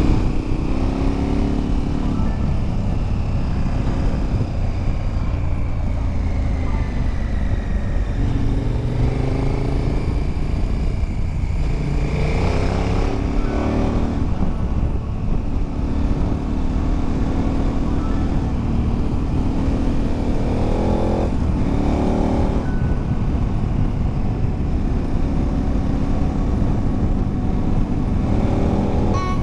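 KTM 1090 Adventure's V-twin engine pulling through the gears under acceleration, its pitch climbing and then dropping at each upshift, over a steady low rumble.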